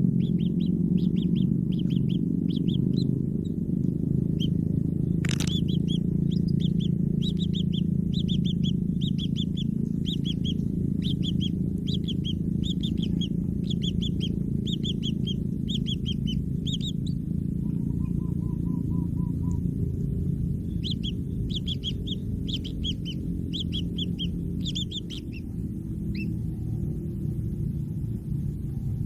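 Kingfisher chicks chirping in a quick run of short high notes, several a second, pausing for a few seconds past the middle and stopping near the end, over a steady low rumble. A single sharp click about five seconds in.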